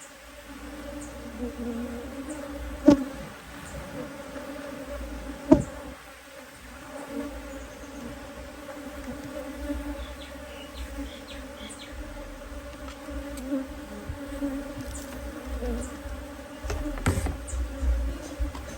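Honeybee colony buzzing steadily at an open hive, with three sharp knocks from the hive being handled: one about three seconds in, one at about five and a half seconds, and one near the end.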